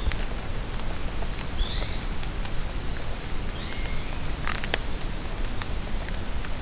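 Steady rain falling in a forest, with sharp drips pattering close by. Small songbirds call over it in high, thin chirping phrases, a short one about a second in and a longer chattering one midway.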